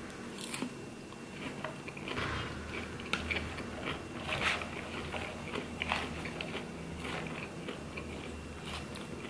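Close-up chewing of crisp salad greens, with irregular wet crunches and mouth sounds.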